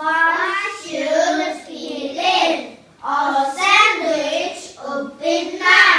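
A child singing a melody in a high voice, in phrases with short breaths between them.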